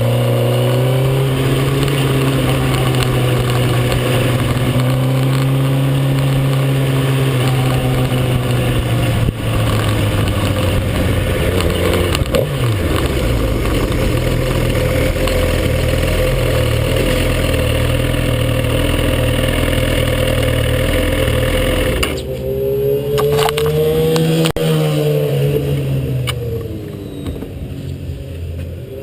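Suzuki GSX-R1000 K9's inline-four engine at racing speed under heavy wind rush, its pitch climbing and falling through the gears. About 22 seconds in the rushing noise drops away as the bike slows. The engine then revs down, up and down again, and grows quieter near the end.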